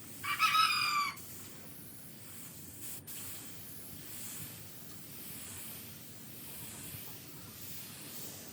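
A loud animal call, about a second long, starting just after the beginning. It is followed by steady low background noise.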